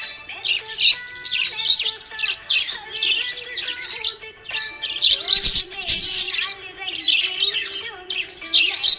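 Budgerigar chatter: a dense, continuous run of quick high chirps and warbles with a few lower held notes.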